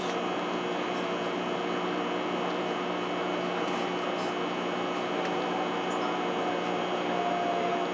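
Steady interior noise of a Hikari Rail Star (700 series Shinkansen) car: an even rumble and hiss with a constant layered hum.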